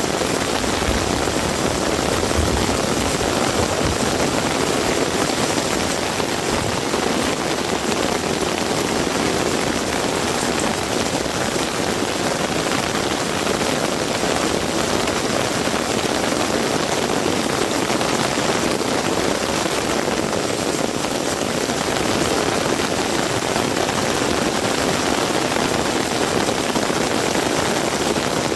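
Heavy rain falling steadily, an even hiss of rainfall without a break. A low rumble from a passing vehicle fades out in the first couple of seconds.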